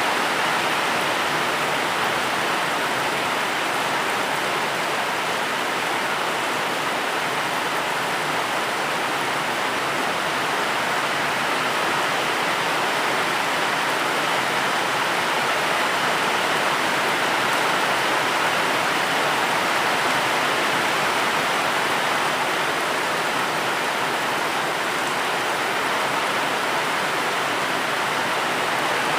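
Steady, even rain: a constant hiss of falling water with no distinct drops, thunder or other events.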